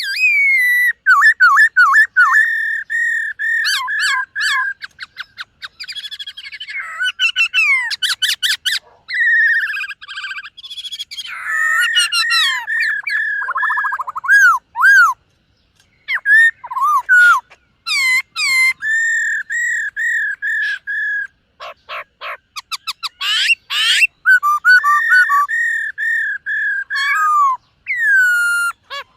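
Black-throated laughingthrush singing: varied whistled phrases of repeated rich notes mixed with quick trills, broken by a few short pauses.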